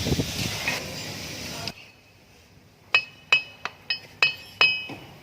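Six light metal-on-metal taps about a third of a second apart, each ringing briefly: steel parts or a tool striking steel during a gearbox teardown. Before the taps, a rushing noise cuts off suddenly after about a second and a half.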